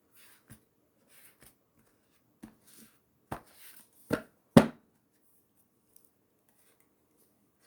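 Oracle cards being handled and laid down on a table: a handful of short taps and card flicks, the loudest a little past the middle.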